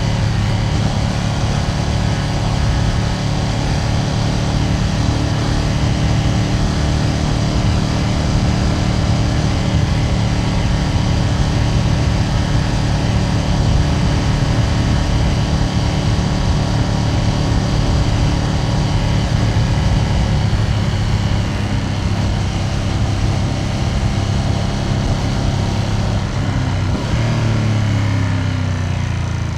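Ducati Panigale V2S V-twin engine running steadily at cruising revs, heard from on the bike. Near the end the revs drop.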